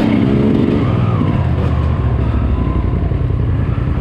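Dirt bike engine running under the rider, its pitch rising and falling briefly at the start, then holding a steadier low note.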